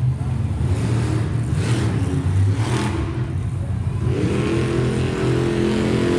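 Monster truck's supercharged V8 engine running hard, revving in repeated surges, with a steadier engine note that climbs in pitch from about four seconds in.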